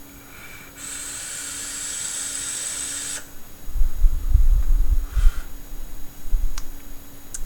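Vape hit on a dripping atomizer with dual Alien coils: a steady sizzling hiss for about two and a half seconds as the coils fire during the draw. Then the exhale blows across the microphone in low gusts.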